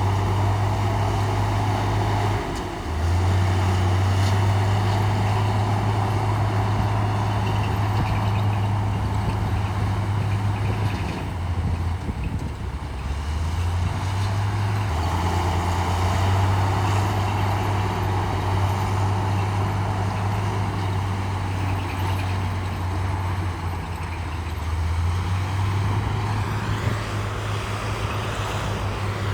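Heavy diesel engine of earthmoving machinery running hard, its engine note dropping and coming back up several times.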